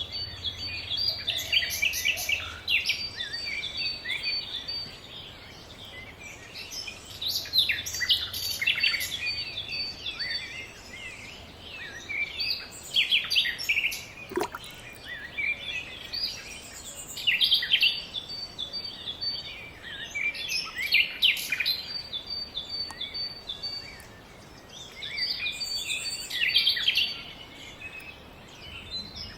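Birds chirping and singing in repeated bursts of quick high notes.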